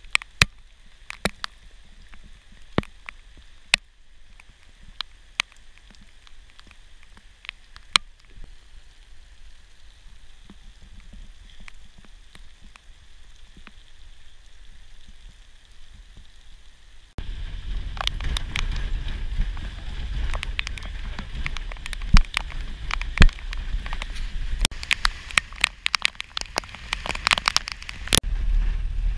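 Steady rain falling, with scattered drops striking near the microphone as sharp ticks. About 17 seconds in it changes abruptly to a louder low rumble of a vehicle driving on a wet dirt road in the rain, with drops hitting much more often.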